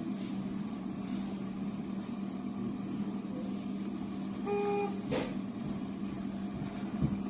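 Steady engine and road hum of a car on the road, with a brief car horn toot about four and a half seconds in, followed by a sharp click and a short knock near the end.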